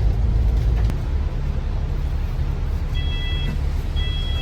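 Steady low rumble of a motor vehicle's engine. From about three seconds in, an electronic beep sounds roughly once a second, each beep about half a second long.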